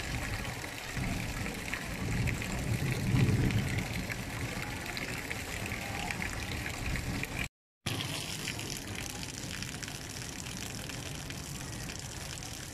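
Steady hiss and patter of rain falling on a flooded street, with a low rumble swelling a couple of seconds in. The sound cuts out completely for a moment about halfway through.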